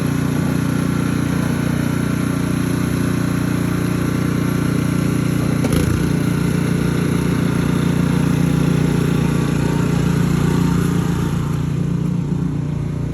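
A small engine running steadily at an even speed, with a single short knock about six seconds in.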